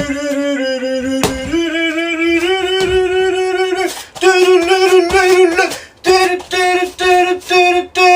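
A high voice singing a wordless tune in steady held notes. Long notes come first, then shorter notes, with brief breaks about four and six seconds in and quick repeated notes near the end.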